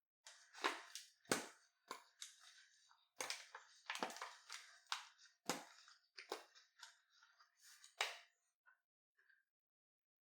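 A series of about a dozen irregular sharp clicks, knocks and crunches from objects being handled at close range.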